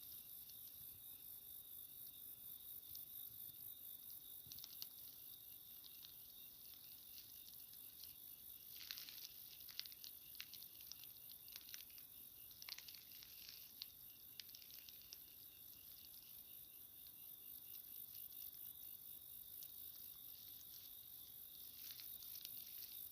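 Crickets and other night insects chirring faintly in a steady high trill, with scattered sharp clicks, most of them between nine and thirteen seconds in.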